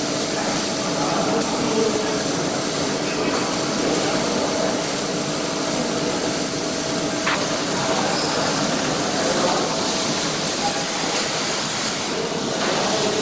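Steady hissing, crackling noise of a welding workshop, with a faint steady hum underneath.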